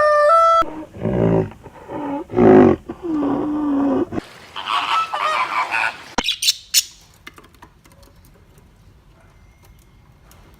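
A run of loud, pitched animal calls in the first four seconds, then a noisier call until about six seconds in; after that only faint clicks and taps.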